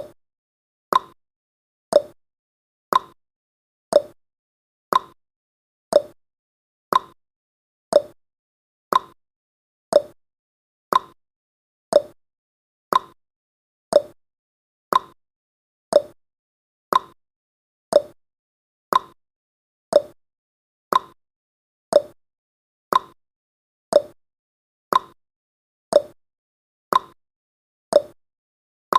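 Countdown timer's ticking sound effect: a short, sharp tick exactly once a second, like a clock, marking each second counted down.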